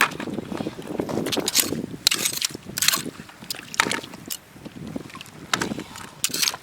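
Shallow seawater splashing and sloshing, with several sharp, irregularly spaced splashes over a steady low wash.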